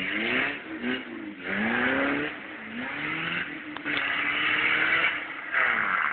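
Car engine accelerating hard, revving up and shifting gear several times: the pitch climbs, drops at each shift, then climbs again, before holding steady and falling away near the end.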